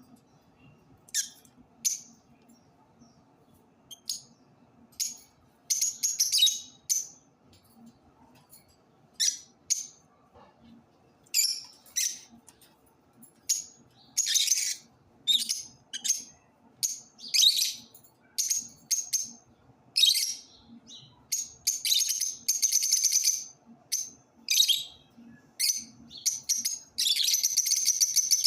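Lovebirds chirping: short, shrill, high-pitched calls in quick irregular bursts, with longer runs of chattering in the middle and near the end.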